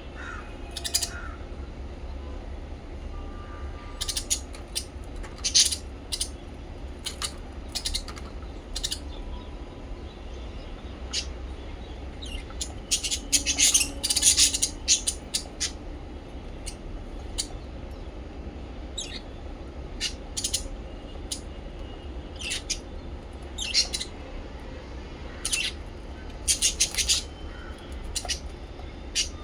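Small pet parrots chirping in short, sharp calls scattered throughout, with a busy flurry about halfway through, over a steady low hum.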